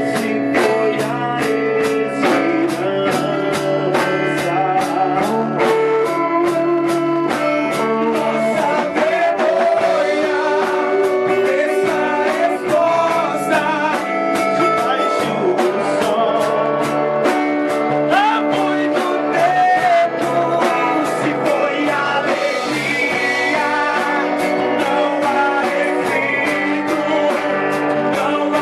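Live band playing a gospel song: electric guitar, bass and drum kit with a steady beat, with singing over it.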